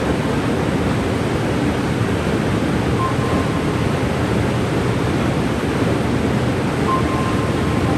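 Waterfall pouring, a steady, dense rush of water. Two brief, faint whistle-like notes come about three and seven seconds in.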